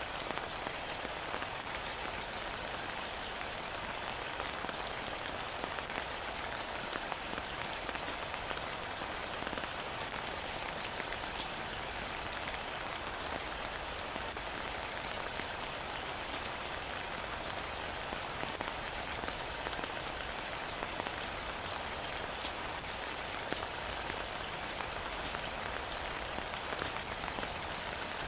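Steady heavy rainfall, a constant hiss of rain with scattered individual drop ticks.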